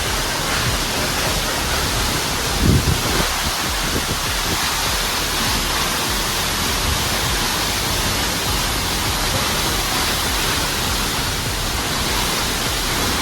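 Waterfall rushing: a steady, dense noise of falling water, with a brief low thump about three seconds in.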